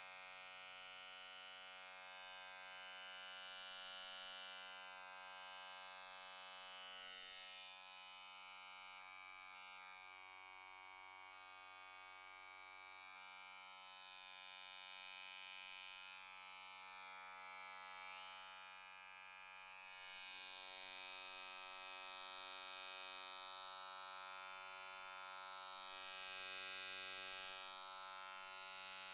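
Handheld electric pore vacuum running steadily: a low, even electric hum with a thin hiss above it that swells and fades a little.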